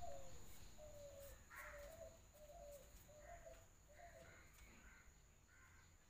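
Faint birds calling: a series of short, low, pitched notes, roughly one or two a second, that stops about four and a half seconds in, while harsher, noisier calls from another bird come in after about a second and a half.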